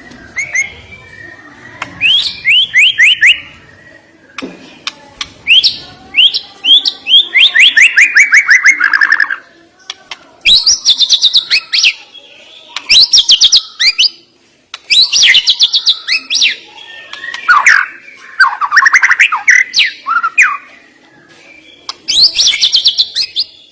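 White-rumped shama (murai batu) singing loudly. It sings phrases of fast, repeated, sharp whistled notes and trills, some sliding downward in series, with short pauses between phrases.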